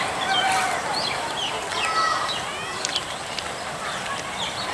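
Many birds chirping in quick, short notes that slide up and down, over a steady background hiss.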